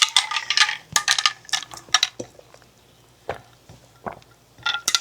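Glassware and utensils clinking and rattling in quick runs for about two seconds, then a few scattered clinks, picking up again near the end.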